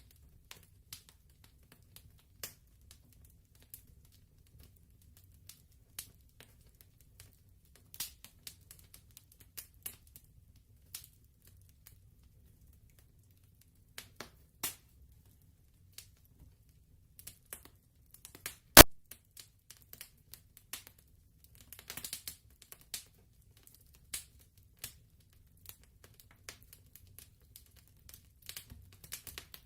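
Wood fire crackling: scattered sharp snaps and pops over a low rumble, with one loud pop about two-thirds of the way through and denser runs of crackles shortly after and near the end.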